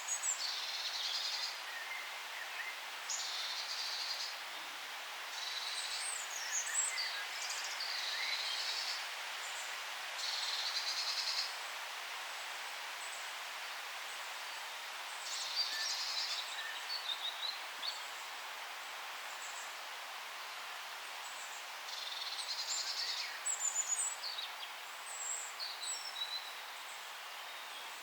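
Forest ambience: several small birds chirping over a steady soft hiss. One high trill, about a second long, comes back every few seconds, mixed with quick short chirps.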